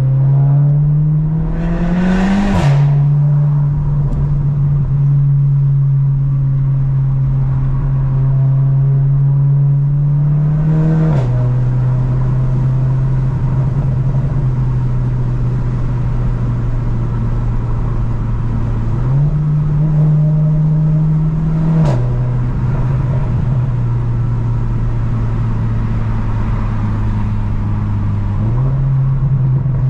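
Car engine and exhaust heard on the move with a DSG dual-clutch gearbox. The engine pitch rises under acceleration at first, then drops sharply on upshifts, each marked by a short crack from the exhaust: about two and a half seconds in, about eleven seconds in and about twenty-two seconds in. Between shifts it runs at a steady cruising drone, with the pitch stepping up twice.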